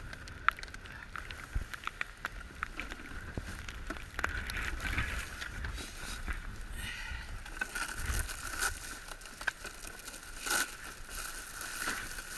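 Goose decoys and bags being handled: scattered clicks, knocks and rustling, over a low wind rumble on the microphone.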